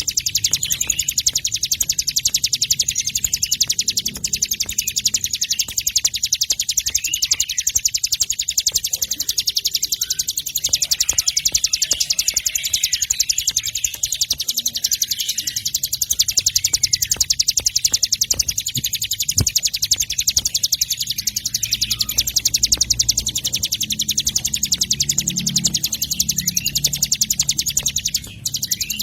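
Many small songbirds chirping and trilling together without pause, high-pitched and dense: a mixed training recording combining songs such as canary, bar-winged prinia, munia and tree sparrow. Near the end it briefly drops out.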